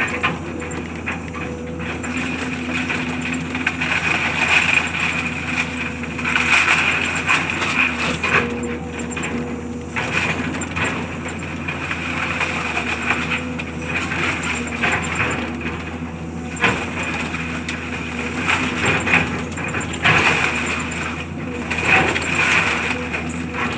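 Engine of heavy demolition machinery running steadily, with louder, rougher noisy stretches every few seconds.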